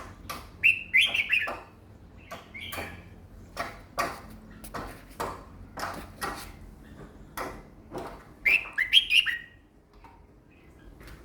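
Red-whiskered bulbul singing two short bursts of quick, warbling notes, one about a second in and another near the end, with a run of sharp clicks and knocks between them.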